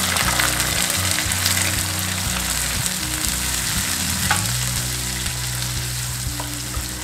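Wet onion paste sizzling in hot oil in a nonstick pan as it is stirred with a wooden spatula; the sizzle eases slightly toward the end.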